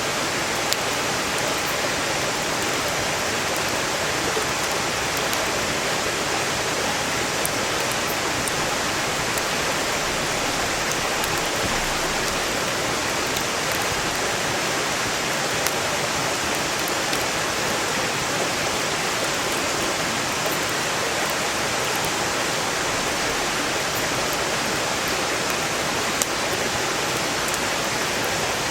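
Stream water rushing loudly and steadily, with scattered small crackles and pops from a wood campfire burning.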